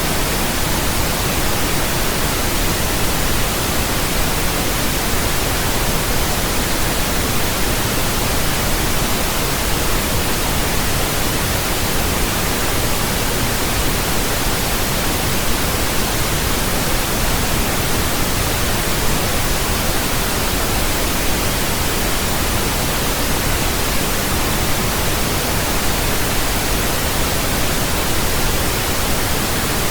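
Steady, unchanging pink noise: an even hiss spread over all pitches, with more weight in the low end than white noise.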